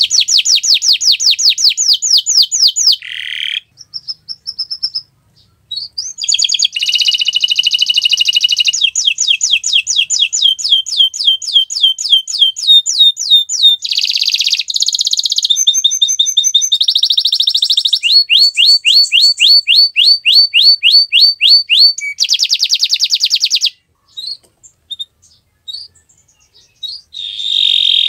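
Domestic canary singing a long song of fast, rapidly repeated high trills and rolled phrases, pausing briefly about four seconds in and again near the end.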